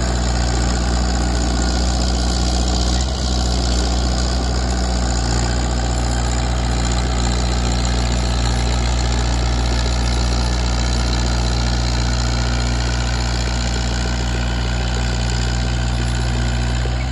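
Kubota KX161-3 excavator's newly installed replacement diesel engine idling steadily.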